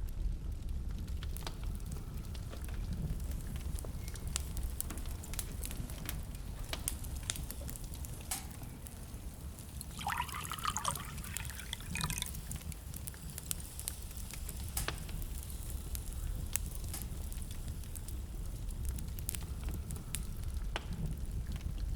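Wood fire burning in a fireplace: scattered sharp crackles and pops over a steady low rumble. About ten seconds in, a wavering squeal-like hiss lasts about two seconds.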